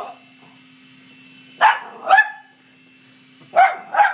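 A dog barking at a micro RC helicopter: two pairs of short, sharp barks, the first pair about a second and a half in and the second near the end. Underneath is the faint, steady hum of the hovering Blade mCX2 coaxial micro helicopter.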